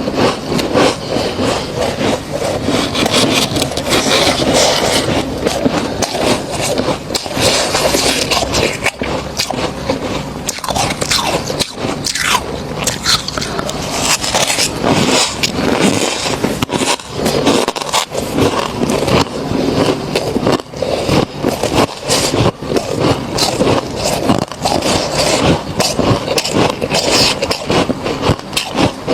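Thick frost built up in a freezer being scraped and crunched: a dense, continuous run of gritty scrapes and crackles.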